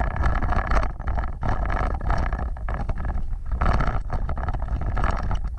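Off-road vehicle driving over rough ground: a steady low engine and drivetrain rumble with frequent knocks and rattles, and wind buffeting the microphone.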